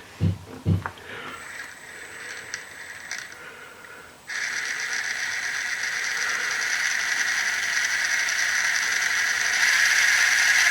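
Electric motor and gear drivetrain of an FTX Outback MK2 RC crawler, freshly replaced after the old motor burned out. About four seconds in it starts and keeps running with a steady whirr, a little louder near the end, running nice and smooth.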